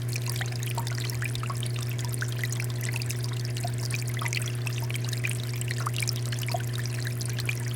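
Water fountain flowing steadily, water pouring and splashing into a basin in a constant stream of small droplets, over a steady low hum.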